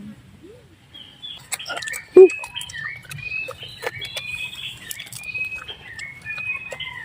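Birds chirping: many short, high chirps, several a second, with scattered clicks and a loud knock about two seconds in.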